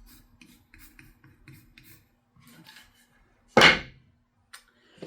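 Light handling rustles and clicks over a faint steady hum, then one sharp knock of wood on wood about three and a half seconds in.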